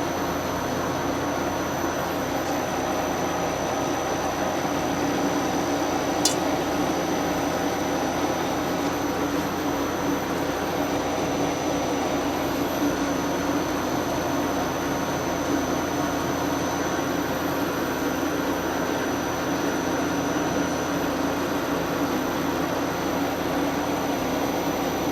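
Metal lathe running steadily while turning a piece down by 32 thousandths, a steady machine hum with a high whine over it. One sharp tick about six seconds in.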